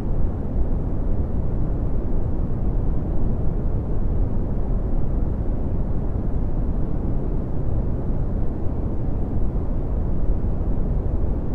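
Red (Brownian) noise: a steady, deep rushing hiss weighted toward the low end, with little above the midrange, unchanging throughout.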